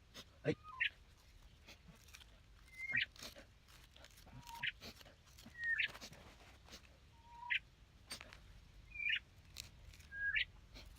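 A bird calling over and over, with short sharp chirps every second or two, some of them led by a brief lower note. Faint clicks are scattered between the calls.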